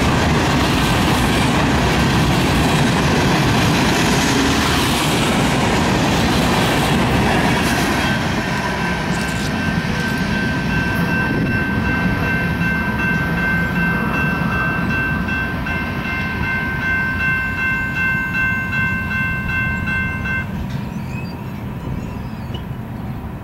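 Empty ballast hopper cars rolling past with steady wheel-on-rail clatter that grows fainter as the train moves away. About a third of the way in, a steady high ringing tone sets in over it, pulsing slightly, and cuts off suddenly near the end.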